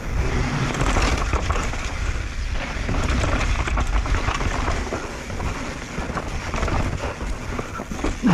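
Mountain bike riding fast down a dirt trail: wind rumbling on the camera microphone, tyres rolling over dirt and rocks, and the bike rattling and knocking over bumps.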